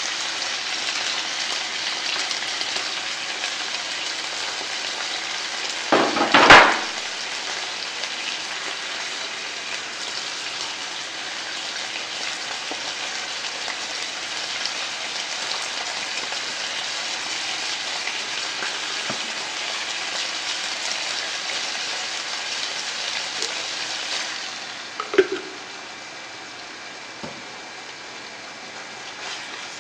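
Spicy stir-fried pork (jeyuk bokkeum) and chopped carrots frying in sesame oil in a frying pan: a steady sizzle. A brief louder burst comes about six seconds in, and the sizzle drops lower about 24 seconds in.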